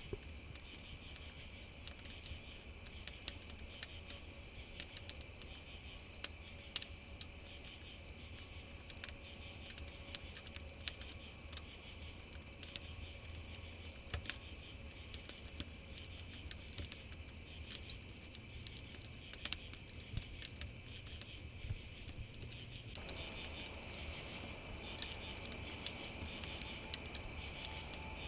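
Campfire crackling, with sharp irregular pops and snaps, over a steady chorus of crickets chirping.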